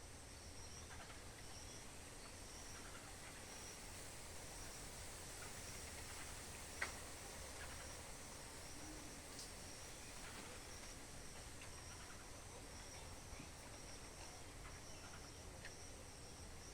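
Faint insects chirping outdoors: a high chirp repeats about once a second over a steady high-pitched insect trill. A single sharp click about seven seconds in.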